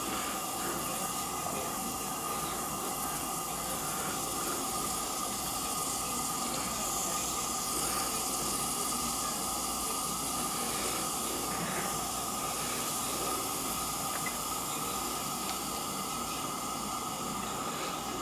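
Butane gas burner running at a high flame under a small steam-engine boiler: a steady, even hiss with a thin constant tone in it.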